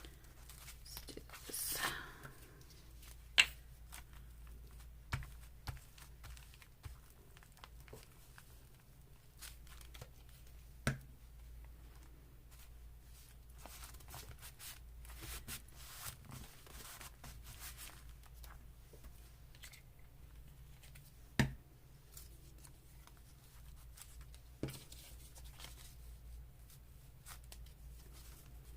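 Paper being torn in a short rip about two seconds in, followed by quiet rustling of paper and several sharp taps as things are set down on a work table, over a steady low hum.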